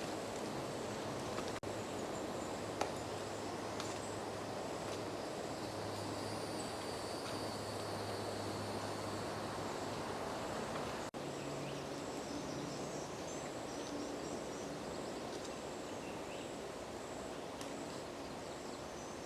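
Outdoor woodland ambience: a steady wash of background noise with a faint low drone, and faint high bird chirps in the second half.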